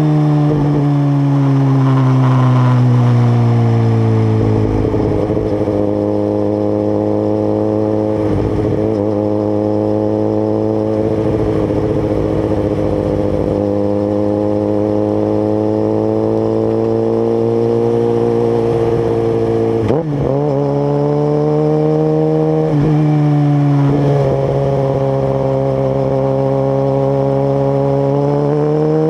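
Suzuki GSX-R1000's inline-four engine through a Two Brothers aftermarket exhaust, running loudly. Its pitch falls in the first few seconds, holds fairly steady, dips sharply a few times, then climbs again near the end.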